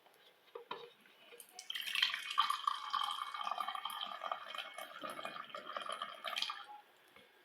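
Water running from a tap into a sink for about five seconds, starting a second and a half in and shutting off near the end.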